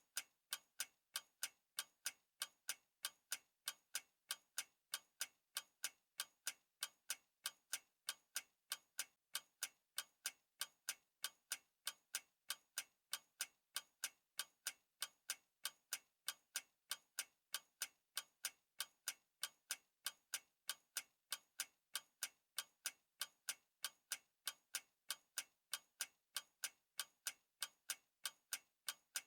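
Clock ticking steadily, sharp even ticks several times a second.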